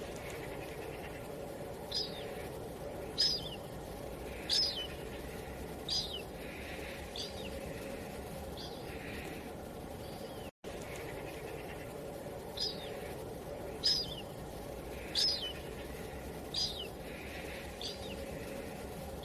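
Steady wind-like ambience with a bird giving five short, high, downward chirps about a second apart. There is a brief drop-out about ten seconds in, then the same five chirps repeat as a loop.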